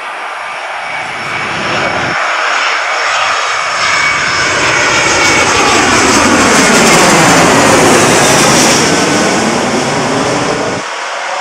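Four-engined Airbus A340-600 jet at takeoff thrust passing close by: engine noise builds to its loudest about two-thirds of the way through, with a sweeping, phasing tone, then eases as it moves away.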